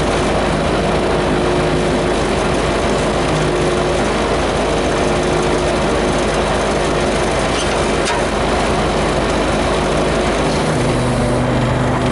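Vehicle engine running steadily under load, its note shifting lower near the end.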